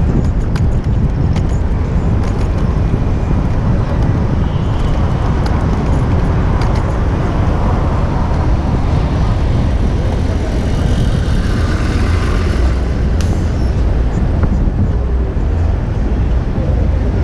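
City traffic heard from a moving bicycle, with wind rumbling steadily on the action camera's microphone.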